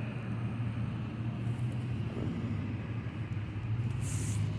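A vehicle engine running steadily with a low hum, with a short hiss about four seconds in.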